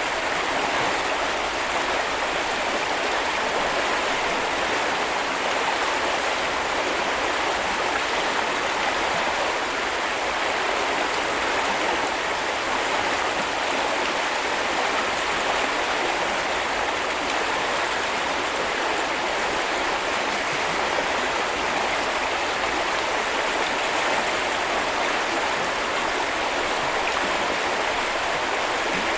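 Small river or stream flowing steadily over rocks: a constant rushing and babbling of water.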